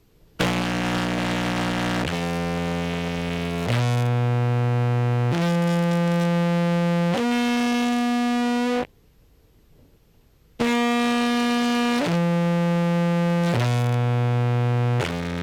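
Contrabass clarinet played through a fuzz and compression pedal chain: a phrase of five low, sustained, heavily distorted notes, a pause of about two seconds, then the phrase starting again. The tone sounds very flat, especially in the attack, almost robotic, from heavy compression.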